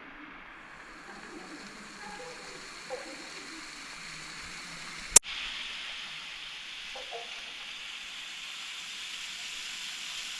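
Waterfall water falling and splashing as a steady hiss. About five seconds in a sharp click breaks it, and after that the rush of water is brighter and a little louder.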